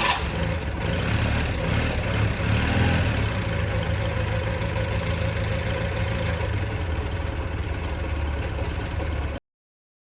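Honda CD200 Roadmaster motorcycle's parallel-twin engine, freshly overhauled, idling steadily. The sound cuts off suddenly about nine seconds in.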